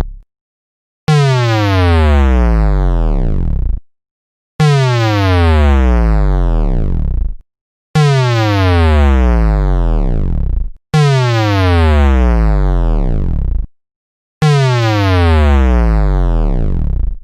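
A buzzy synthesizer tone glides steadily down in pitch for about three seconds and stops abruptly, a falling sound effect. It plays five times with short silences between.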